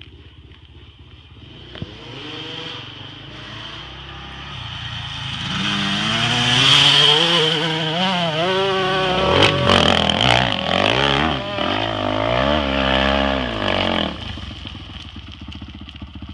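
Dirt bike engine idling, then revving hard under load up a sand hill, its pitch rising and falling several times. It is loudest in the middle and eases off about fourteen seconds in.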